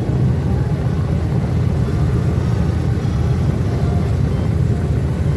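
Aircraft engines running, heard as a loud, steady low rumble.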